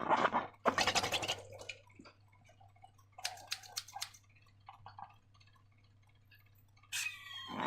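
Slime being squished and worked by hand: short wet, crackly squelches in the first couple of seconds and a few clicky pops around the middle, then a squeaky, sliding sound starting near the end.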